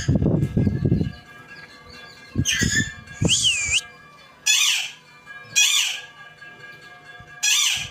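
A pet parrot squawking: five loud, harsh calls about a second apart, one of them a rising-and-falling whistled note. A low rumble fills the first second.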